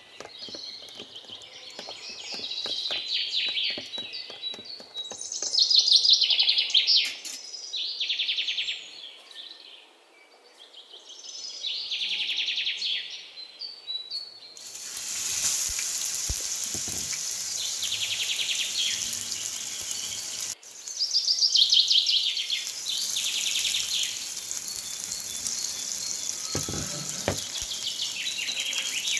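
Birds chirping in repeated trilling bursts. About halfway through, oil in a frying pan suddenly starts sizzling steadily as food fries in it, with the birds still heard over it.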